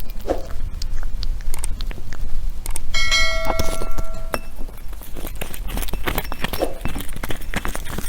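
Syrian hamsters gnawing and cracking nuts: rapid, irregular clicks and crunches. About three seconds in there is a short metallic ring lasting over a second.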